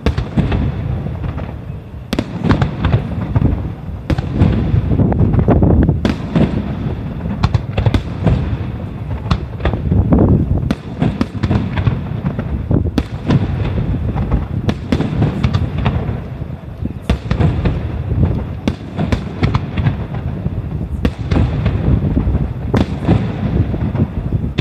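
Rapid-fire star-mine barrage of aerial firework shells from Nomura Hanabi Kogyo, heard through a smartphone microphone. Sharp bangs of launches and bursts come several a second and overlap, over a continuous low rumble.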